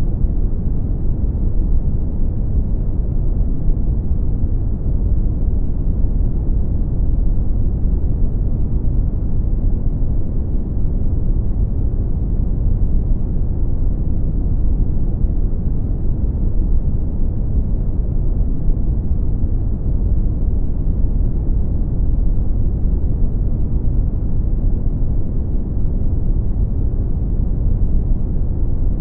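Brown noise: a steady, deep rushing hiss, strongest in the bass and fading off toward the highs, with no changes or events.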